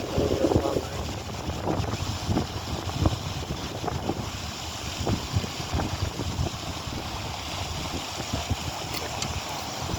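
Strong wind buffeting the microphone: an uneven, gusting low noise with many short blasts.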